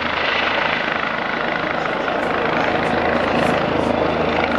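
Police helicopter running steadily overhead: an even, loud drone of rotor and engine.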